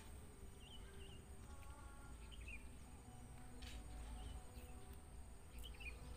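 Faint rural outdoor ambience: a small bird gives a short chirping call four times, about every two seconds, over a low rumble and a steady high-pitched hiss.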